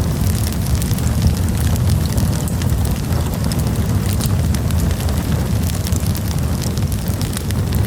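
Wood campfire burning, with a steady low rumble under frequent sharp crackles and pops.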